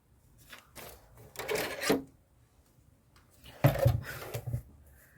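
Craft materials being handled on a tabletop: a rasping rub about a second and a half in, then a louder burst of rubbing with dull knocks near the four-second mark.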